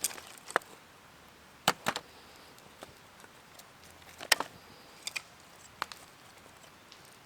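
A few sharp clicks and knocks at uneven intervals, with the loudest about four seconds in.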